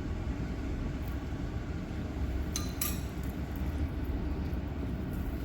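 Two quick metallic clinks, a spoon against a mixing bowl, about two and a half seconds in, over a steady low background rumble.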